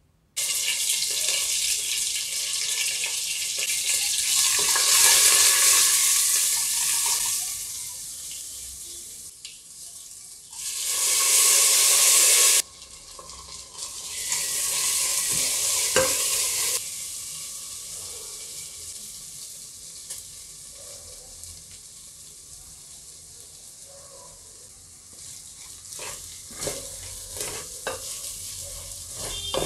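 Split moong dal and tempering sizzling in hot oil in a pressure cooker pot as they are sautéed and stirred with a wooden spatula. Loud hissing stretches start and stop abruptly, then the sizzle settles quieter, with scraping taps of the spatula against the pot near the end.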